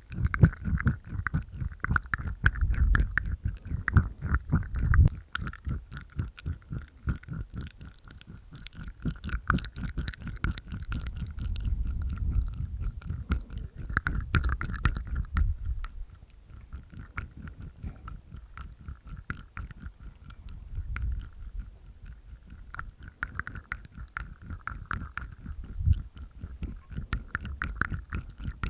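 Close-miked ASMR mouth sounds made inside the mouth: wet tongue clicks and teeth sounds in dense rapid runs, with heavier low bursts in a few stretches.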